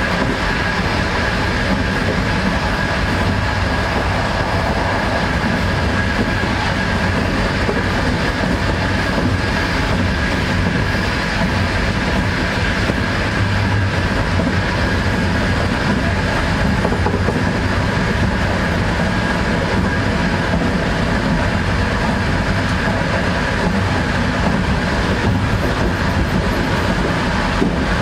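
Passenger train running at speed, heard from inside the carriage: a steady noise of wheels on the rails with a constant high whine over it.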